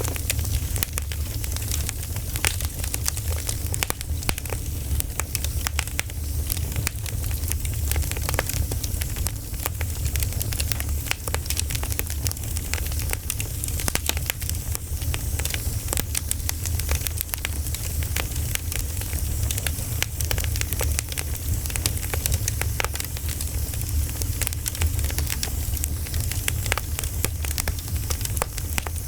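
Campfire crackling steadily: dense, irregular pops and snaps of burning wood over a low steady rumble of the flames.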